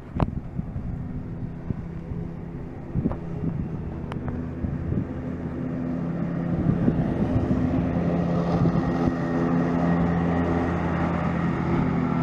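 Kubota D1305 three-cylinder diesel of a Grasshopper 900D zero-turn mower running steadily under load while the mower cuts tall, wet grass, growing louder from about halfway through as the mower comes closer.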